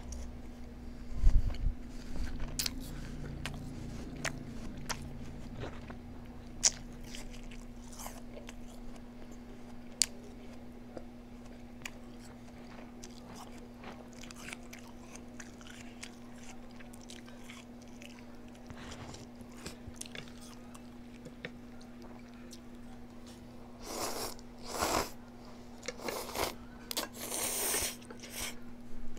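Close-up eating sounds: a person biting and chewing crunchy food, with scattered sharp crunches and a denser run of loud crunches near the end, over a steady low hum.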